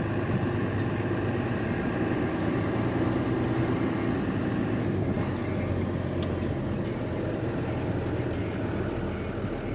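Box truck engine running with road noise, heard from inside the cab as the truck drives slowly.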